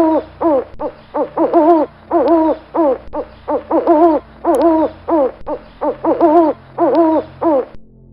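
An animal's repeated short hooting calls, several a second in quick bursts, stopping shortly before the end.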